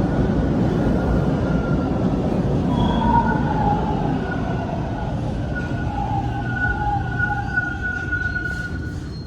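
A Toronto subway train rumbling as it slows into a station, with thin high whining tones over the rumble, one dipping slightly in pitch; the rumble gradually eases off.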